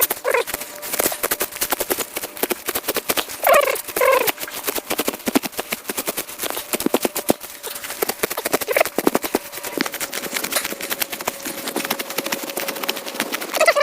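Hand sickle slicing through grass: a fast, continuous crackle of stems being cut. Turkeys gobble a few times, loudest about three and a half seconds in.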